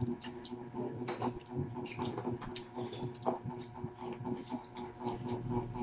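Several people chewing fried chicken with lip-smacking, a quick irregular run of small wet clicks and crunches, over a steady low hum.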